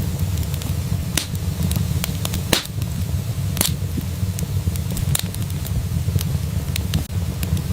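Wood fire in a fireplace crackling, with sharp pops at irregular moments, several times, over a steady low rumble.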